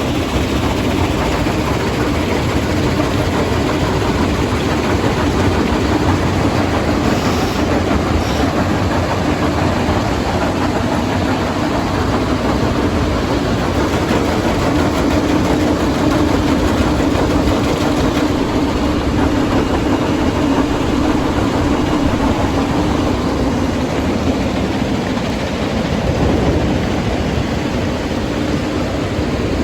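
Heavy crushing and screening plant machinery running steadily: a loud, constant mechanical noise with a low steady hum.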